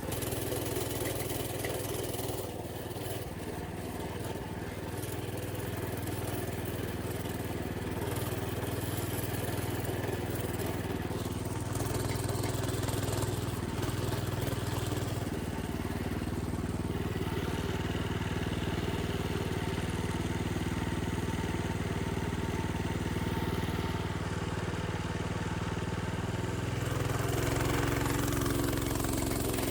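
Small engine of an old minibike running as it rides along, its pitch shifting up and down a few times with the throttle.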